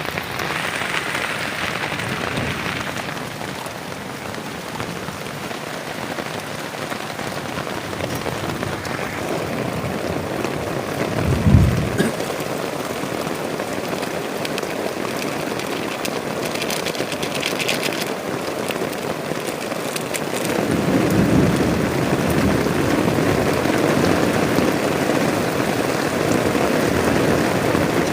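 Heavy rain falling steadily, with a brief low thud about a third of the way in; the rain grows louder in the last quarter.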